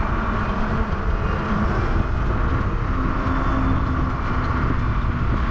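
Wind rushing over the microphone and road noise from a moving bicycle, loud and steady, with a faint steady hum underneath.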